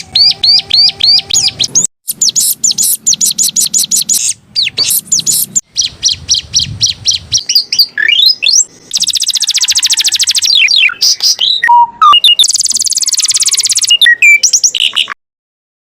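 Domestic canary singing a long, varied song: fast runs of repeated chirps, rapid high trills and sliding whistles, cutting off abruptly near the end.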